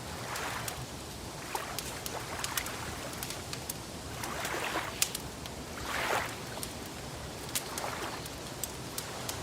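Wood fire crackling with frequent sharp pops, over gentle water lapping in soft, irregular swells.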